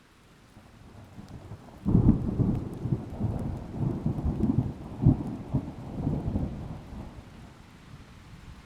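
A thunderclap over rain: the rumble swells, breaks sharply about two seconds in, rolls on with crackling peaks for about five seconds, then fades back to the steady rain.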